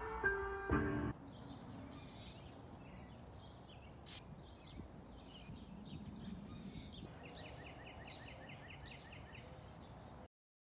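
Small birds chirping and calling over a steady outdoor hiss, with a fast run of repeated chirps, about five a second, starting about seven seconds in. A music track ends abruptly about a second in, and all sound cuts off just before the end.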